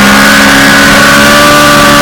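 Suzuki GSX-R600's inline-four engine at speed, its note climbing slowly and steadily as the bike accelerates through a gear, over a dense rush of wind noise.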